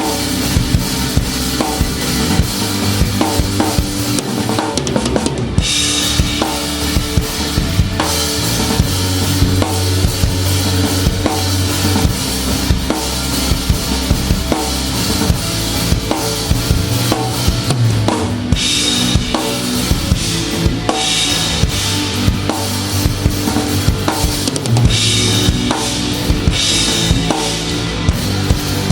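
Rock band playing live with the drum kit loudest: a busy kick-and-snare beat over bass and guitar, with cymbal crashes washing out several times.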